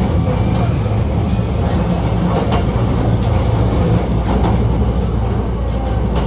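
Hankyu 1300 series electric train running between stations: a steady low rumble of wheels on rail, with a few short sharp clicks from rail joints around the middle.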